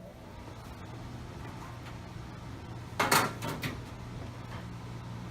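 Extra-large low-grain dehumidifier switched on and running with a steady hum. About three seconds in, a brief cluster of sharp knocks or clatter.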